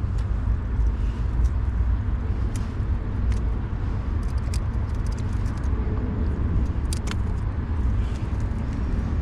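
Steady low rumble of wind buffeting the microphone, with scattered light clicks throughout.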